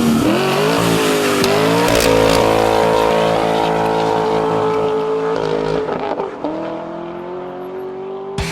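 A car engine revving hard at high speed, its pitch climbing, dipping briefly at gear changes and then holding high; it grows quieter for the last couple of seconds.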